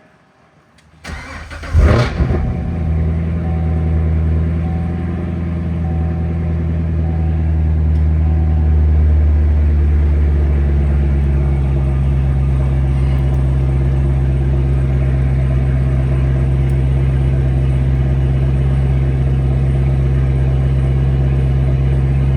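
Vehicle engine cold-started: the starter cranks briefly about a second in, the engine catches with a quick flare of revs, then settles into a steady idle that drops a little in pitch about ten seconds later.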